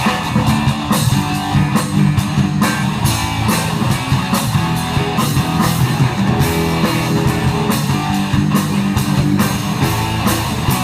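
Live rock band playing an instrumental passage: electric guitar, bass and drum kit with a steady beat.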